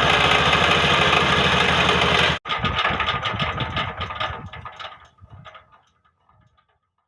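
Petter-type stationary diesel engine running with a steady beat; about two and a half seconds in the sound breaks off abruptly, and a weaker run of its beats follows and fades away to nothing within about four seconds.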